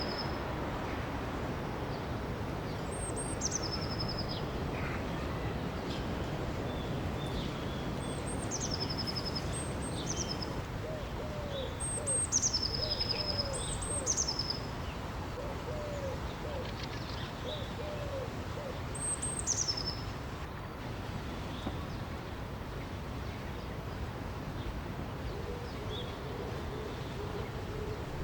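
Birds calling over a steady rush of flowing water. High whistled notes drop in a step, sounding in clusters through the first two-thirds. Short low hooting notes repeat about a dozen times in the middle.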